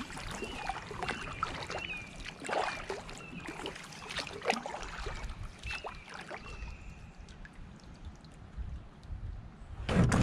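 Kayak paddle strokes splashing and dripping water in a steady rhythm, fading off after about seven seconds, with a louder knock on the hull at the very end.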